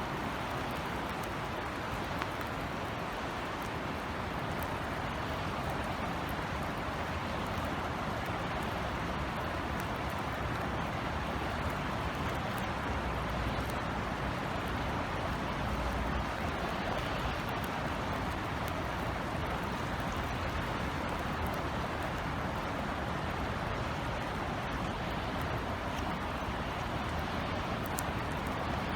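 Steady light rain falling, a constant hiss with scattered tiny drop ticks, over a low rumble that swells slightly around the middle.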